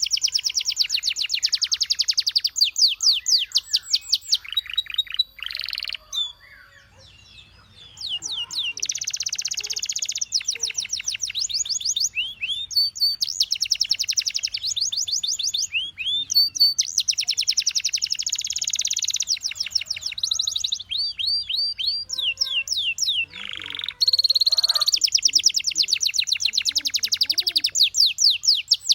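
Canary singing: long trills of rapidly repeated high notes, with a short pause about six seconds in and a few slower runs of separate notes later on.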